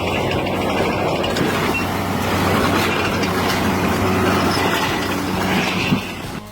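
Heavy machinery engine running steadily with a low hum, dropping away shortly before the end.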